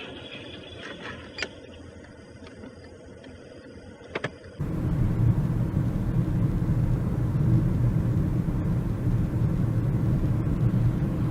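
Steady low rumble of a car on the move, starting abruptly about four and a half seconds in. Before it there is a faint background with a few short clicks.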